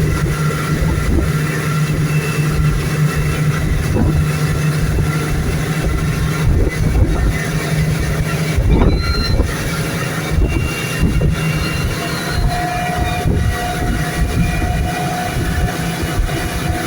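Motorboat engine running steadily, a constant low drone, with rushing wind and water noise buffeting the microphone.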